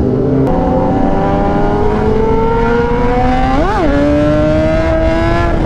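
Kawasaki Ninja ZX-10R inline-four engine under way, its note climbing slowly as the bike gathers speed. About three and a half seconds in the revs flick up and drop straight back, then the note holds steady and eases slightly.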